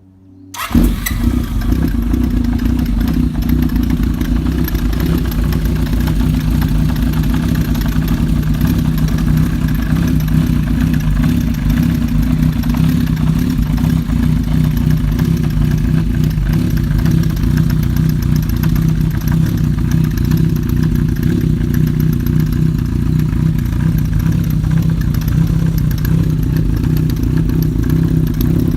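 Honda CB750F's inline-four engine idling steadily through a one-off WAGIRI muffler with a black-iron finish; the sound comes in abruptly about half a second in.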